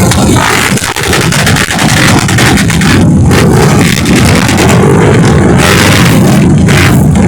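Trail motorcycle engines running loud and steady.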